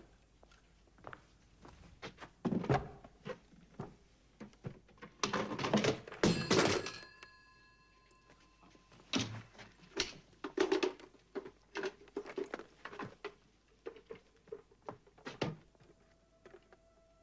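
Indoor knocks, thuds and footsteps of furniture and household things being carried and set down during a house move, with a louder clatter about five to seven seconds in that leaves a brief high ringing.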